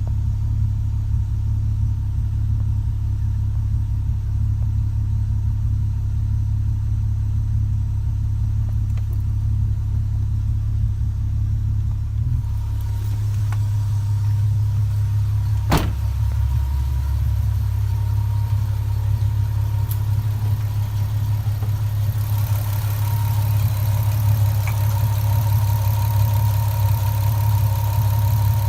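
A 3.2-litre VR6 engine, swapped into an Audi S3 8L, running at a steady idle with no revving. There is a single sharp click about sixteen seconds in, and more hiss in the last several seconds.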